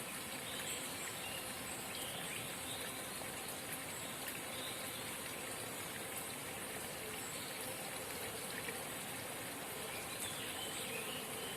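Forest spring babbling steadily, with occasional faint high chirps over it.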